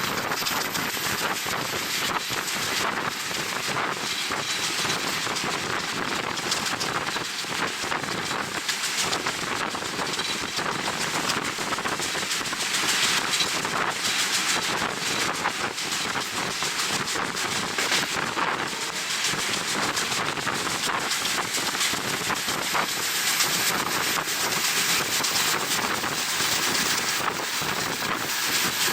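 Wind from a moving train rushing over the camera's microphone at the open window: a steady, loud, hissing rush with small flutters and no breaks.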